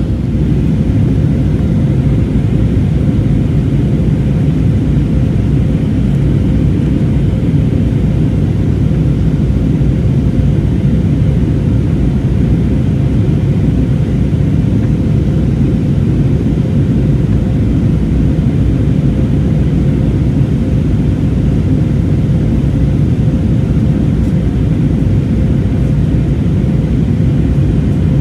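Steady cabin noise inside an Airbus A320neo airliner in flight during descent: a loud, even rumble of airflow and engines with a faint steady hum, unchanging throughout.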